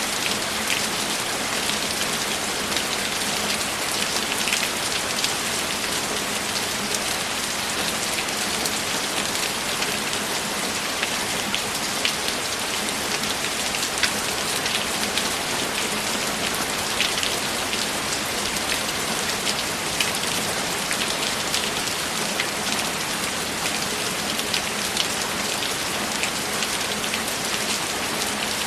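Steady rainfall: a dense, even hiss of rain with many louder individual drops scattered through it.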